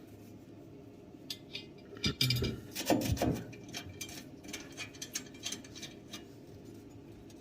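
Scattered clicks and clinks of metal parts and loose wood pellets being handled while a pellet stove's burn pot is cleaned out, busiest about two to three and a half seconds in.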